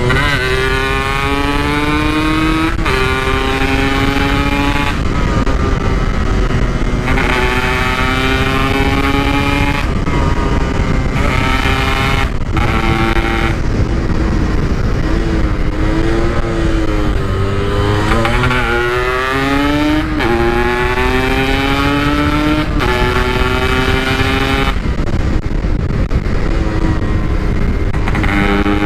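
Yamaha RX-King two-stroke single-cylinder engine, fitted with a standard-style packed muffler, revving hard under full throttle. The pitch climbs and drops back at each gear change every two to three seconds. About halfway through, the throttle eases off and on, making the pitch waver, before it pulls hard up through the gears again.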